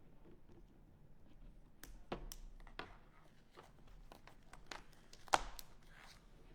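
Scattered light clicks and taps of small objects being handled on a table, with one sharper tap about five seconds in.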